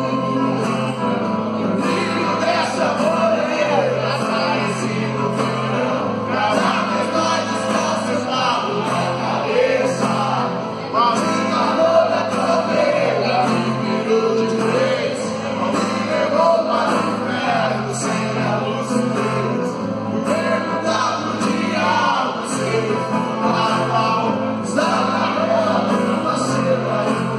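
A live band playing a song, with a man singing over bass and percussion.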